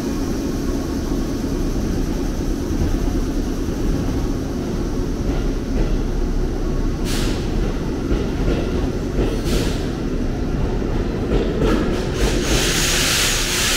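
JR West 213 series electric train rolling slowly along the platform, with a steady low running rumble and a few wheel clicks over rail joints. A loud hiss rises near the end.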